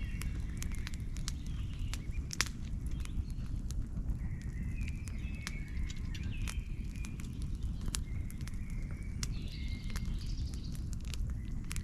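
A bird chirping in short, repeated high notes, in several bouts, over a steady low rumble, with scattered sharp clicks and cracks throughout.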